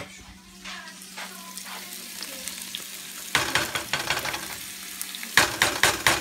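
Sliced onions, bell peppers and mushrooms sizzling in hot oil in a frying pan, with two louder bursts of crackling as more vegetables go in, about three seconds in and again near the end.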